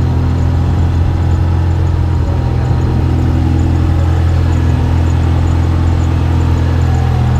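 Car engine idling steadily with a low, even note.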